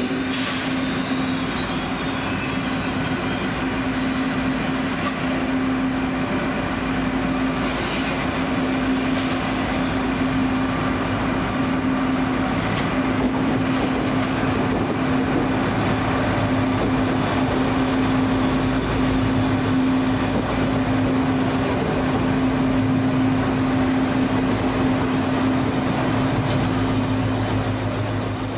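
Trenitalia Minuetto multiple unit running slowly into the station and drawing along the platform, with a steady low hum from the train. A short hiss comes about ten seconds in.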